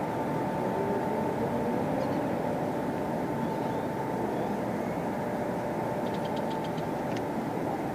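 Steady background noise with a thin constant hum running through it, and a few faint clicks near the end.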